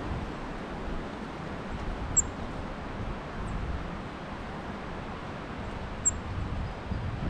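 Wind blowing steadily, with a bird giving short, sharp, high chip notes about two seconds in and again about six seconds in, and a fainter one between them.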